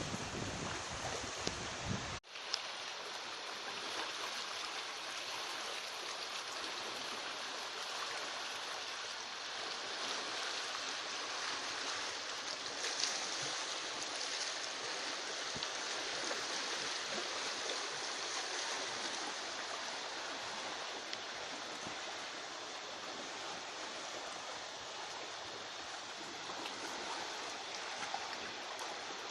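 Steady rush of running water, like a small stream, even in level throughout. For the first two seconds wind rumbles on the microphone, then stops abruptly at a cut.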